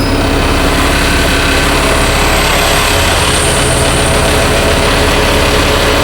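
Dennis Trident double-decker bus engine running steadily under way, with a high turbocharger whine that rises slightly about two seconds in.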